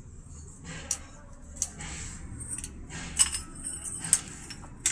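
Metal clinking and knocking, like hand tools or engine parts striking metal: about six sharp clicks spaced irregularly, over a faint low hum.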